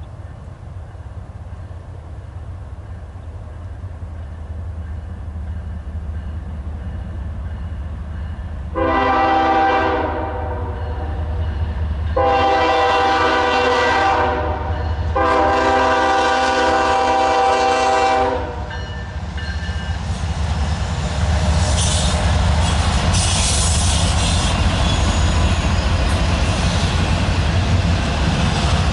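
Norfolk Southern diesel locomotives approaching with a rumble that grows louder, sounding the air horn three times, each blast longer than the one before. The locomotives then pass with loud wheel and rail noise and a few brief high squeals from the wheels.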